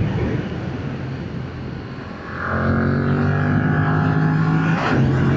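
Yamaha MT-07's parallel-twin engine through its stock exhaust while riding: off the throttle for the first two seconds, then pulling harder from about two seconds in, with the pitch slowly climbing. There is a brief break near the end, like a gear change.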